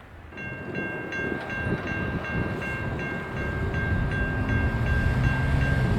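Railroad grade-crossing bell starting to ring, about three strokes a second. Under it the rumble of an approaching train grows louder, and low locomotive tones slowly rise in pitch in the second half.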